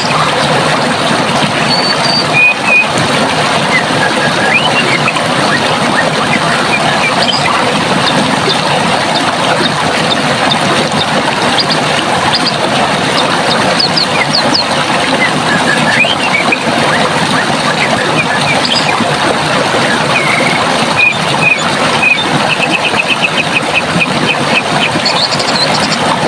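Steady rush of running water, with small birds chirping over it now and then and a quick trill of repeated high notes near the end.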